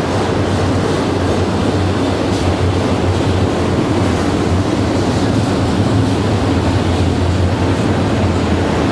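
Norfolk Southern freight train rolling past, a loud, steady rumble of the railcars on the track.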